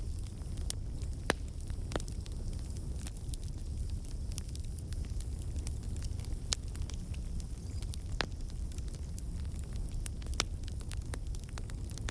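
Wood campfire burning: a steady low rumble of flame under scattered crackles from the burning logs, with a few sharper pops standing out.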